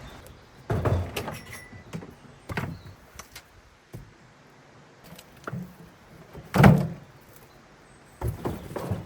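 Old wooden debris being broken up and handled: several separate thumps and knocks, the heaviest about two-thirds of the way in, with a cluster of knocks near the end.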